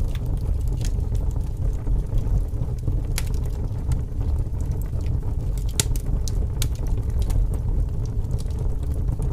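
Wood campfire burning, with irregular sharp crackles and pops over a steady low rumble of wind.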